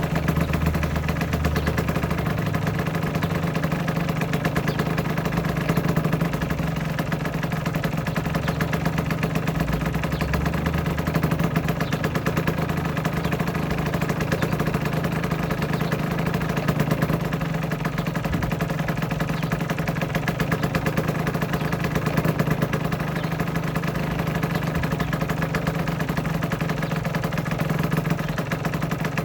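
Aprilia RS125's two-stroke single-cylinder engine idling steadily.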